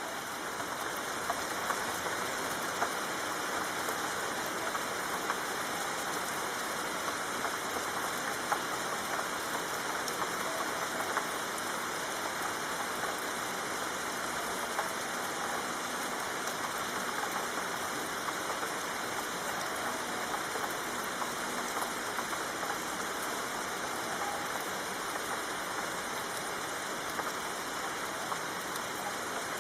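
Steady, soft rain falling, with many small drop ticks in an even hiss.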